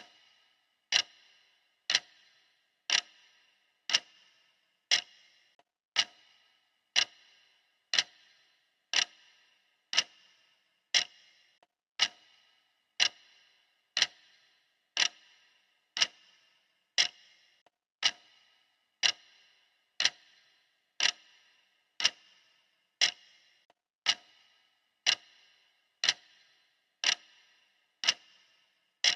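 Clock ticking steadily, one sharp tick each second, every tick with a brief bright ring.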